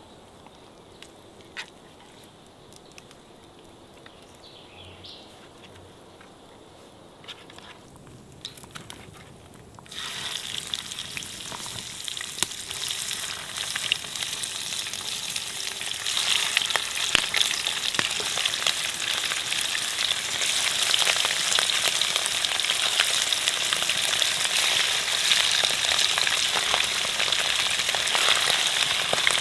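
Mustard-coated armadillo pieces frying in hot oil in a skillet over a wood fire, sizzling and crackling as chicharrones. The sizzle starts suddenly about ten seconds in, after a quiet start, and grows louder around sixteen seconds in as more pieces go into the pan.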